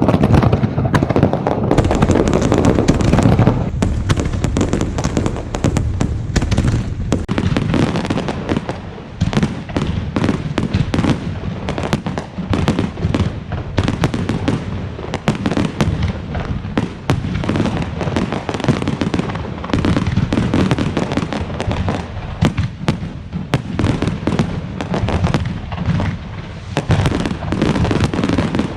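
Fireworks display: a dense, continuous barrage of rapid bangs and crackling, over a low rumble of heavier shells.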